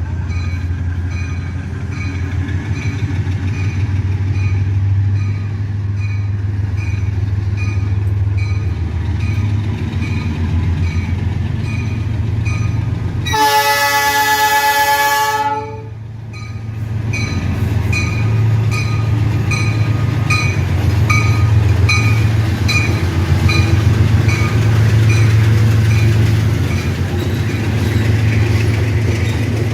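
Diesel locomotives of a heavy iron ore freight train running by with a steady low engine drone and a regular clicking. Near the middle a loud multi-note air horn chord sounds for about two seconds, then the engines and wagons carry on.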